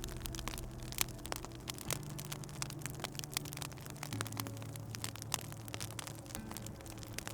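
Wood fire crackling, with many small sharp pops and snaps. A low held tone runs underneath and steps to a new pitch about two and four seconds in.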